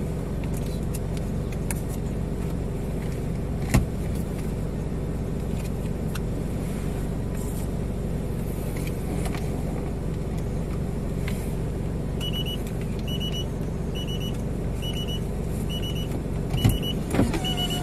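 A stationary car idling, heard from inside the cabin as a steady low hum. A single sharp click comes about four seconds in. From about two-thirds of the way through, a short high electronic beep repeats roughly every three-quarters of a second, and a few knocks come near the end.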